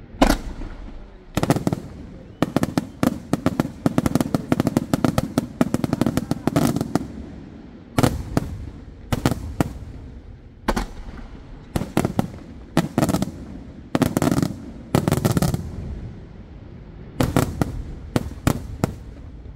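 Aerial firework shells bursting in quick succession. Dense volleys of sharp bangs come about two to seven seconds in, then separate loud bangs, then another fast cluster near the end.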